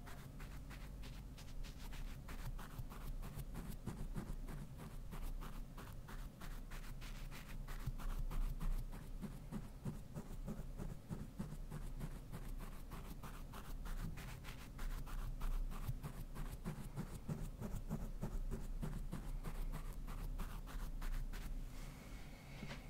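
A brush stroking rapidly back and forth across a Blue Yeti microphone, giving a fast, scratchy rustle of many strokes a second that eases off near the end.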